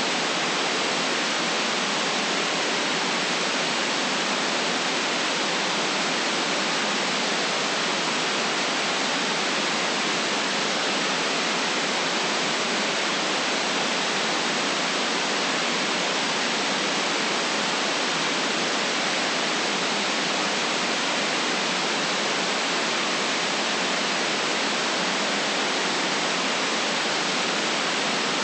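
Steady artificial white noise: an even, unchanging hiss with no bass rumble and no top treble, and no individual sounds in it.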